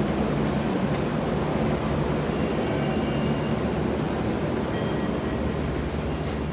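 A train running, giving a steady rumble and rolling noise with a faint hum underneath.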